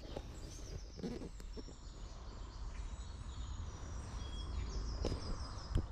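Small songbirds chirping and singing in short, high repeated phrases over a steady low rumble, with a sharp knock near the end.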